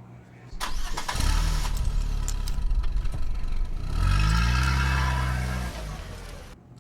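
A large engine starts up about half a second in and runs, then revs with a rising pitch near four seconds in before dying away and cutting off suddenly.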